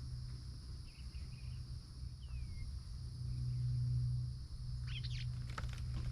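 Pond-side ambience: a steady insect drone over a steady low hum that swells a little in the middle. Birds call briefly: a few faint chirps about a second in, one falling whistled note about two seconds in, and a quick burst of chirps about five seconds in.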